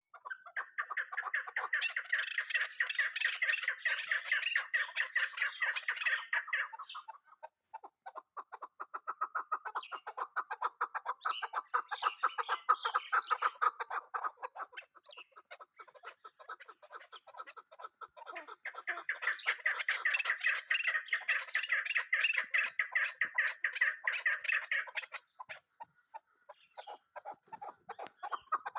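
Chukar partridge calling: long runs of rapid, repeated chuck notes in three bouts of several seconds each, with short pauses between, then a few scattered notes near the end.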